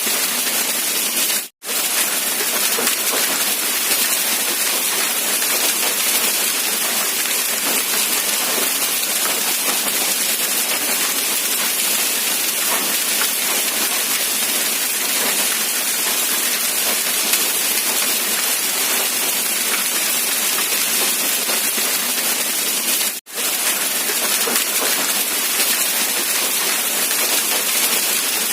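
Rain falling steadily as an even hiss, with almost no low rumble. It cuts out for an instant twice: about a second and a half in, and again about five seconds before the end.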